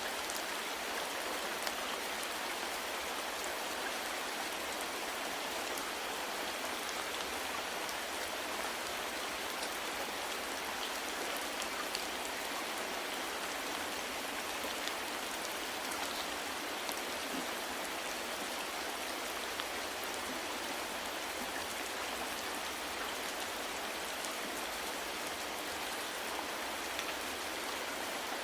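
Steady rain falling: a constant hiss with scattered individual drops ticking through it.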